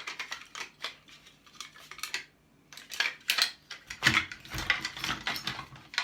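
Metal parts and hand tools clinking and scraping: a string of sharp clicks and short rasping scrapes, busier in the second half, as parts are worked loose from scrapped equipment.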